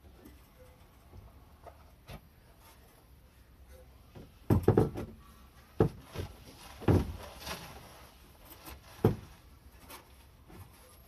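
A few sharp knocks and clunks: a quick cluster about four and a half seconds in, then single knocks about a second, two seconds and four seconds later.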